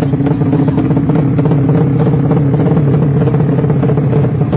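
Modified 200cc drag-racing motorcycle engine held at high revs, loud and steady in pitch.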